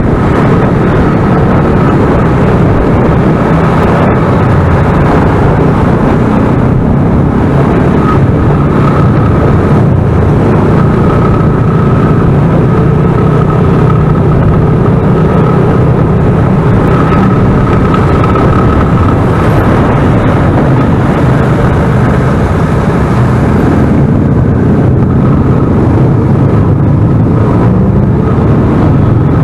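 A motorcycle riding on the road: a loud, steady rush of wind and engine noise, with a thin steady whine above it.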